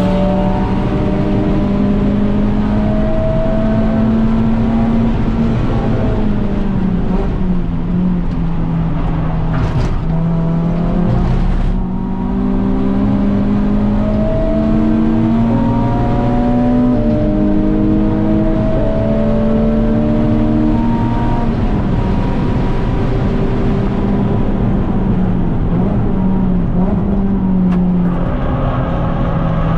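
Renault Clio 197's 2.0-litre four-cylinder engine driven hard around a race circuit, its pitch rising and falling through the revs with several sudden drops. There are two brief sharp clicks about ten and twelve seconds in.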